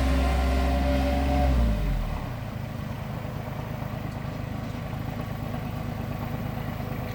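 An engine running steadily, then slowing down about two seconds in and settling into a fast, even idle.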